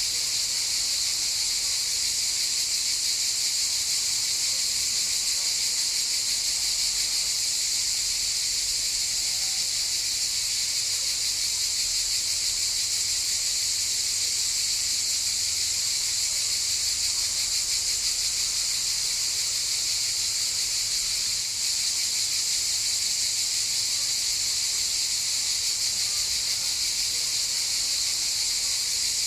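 Cicadas buzzing in a dense, steady, high-pitched chorus that does not let up.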